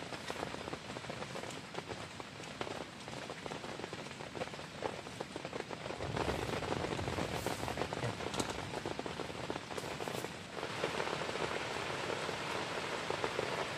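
Heavy rain falling on a tent, a dense, even patter of many small drops that gets a little louder about six seconds in and again near the end.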